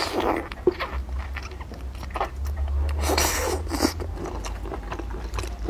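Close-miked eating sounds: a person chewing soft langoustine (Norway lobster) meat, with irregular wet mouth noises and a longer sucking, slurping stretch about three seconds in.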